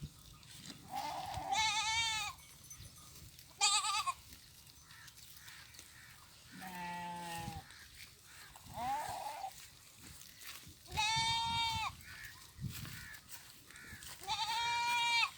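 Goats and sheep bleating: about six separate calls with quiet gaps between them, most high-pitched and one deeper call near the middle.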